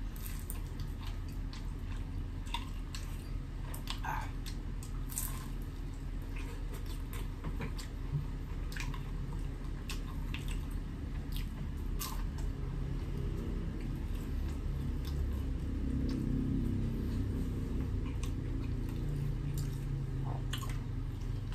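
A person eating a tuna pie, chewing and biting with small wet mouth clicks and squishes scattered throughout. A steady low hum runs underneath.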